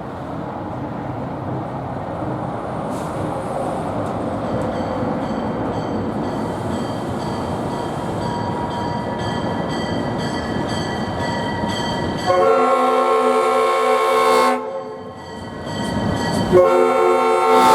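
ALCO RS-1 diesel locomotive running toward a grade crossing, a steady rumble that slowly grows louder. About 12 seconds in, its Nathan S5T five-chime air horn blows a chord for about two seconds, then starts a second, longer blast near the end.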